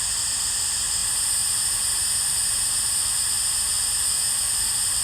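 Steady static hiss at a constant level, with no breaks or other events.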